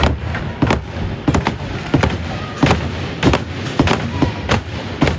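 Hockey sticks and pucks clacking and knocking on the ice and boards of a rink: a quick, uneven run of sharp cracks, about two to four a second.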